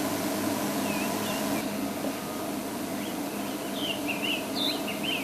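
Small songbirds chirping in short, quick whistled notes, more of them in the second half, over a steady low hum and hiss.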